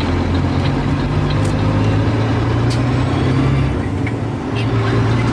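Heavy truck engine running steadily with a deep low hum, easing off briefly a little after halfway and then picking up again.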